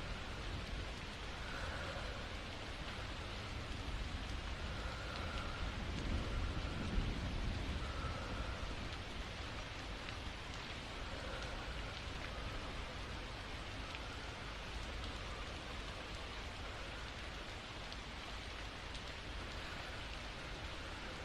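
Steady rain falling, with a soft low rumble swelling about six to seven seconds in.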